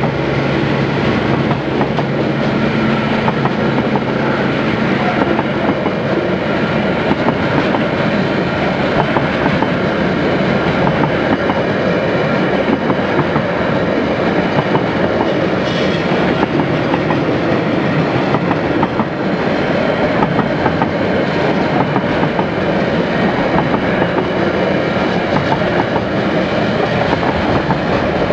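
Train rolling past close by, its wheels clattering steadily over the rail joints.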